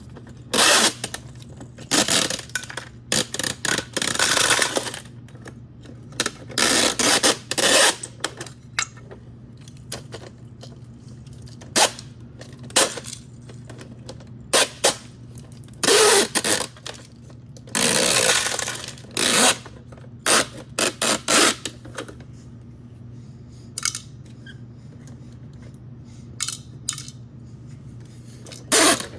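Plastic toy garbage trucks being handled and played with: irregular bursts of clattering and scraping, some in quick runs, over a faint steady hum.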